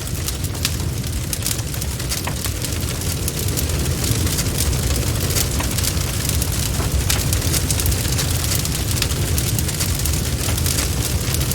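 Campfire burning: a steady low rumble of the flames with frequent, irregular sharp crackles and pops.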